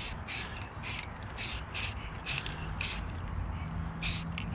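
Aerosol spray-paint can sprayed in a quick series of short hissing bursts.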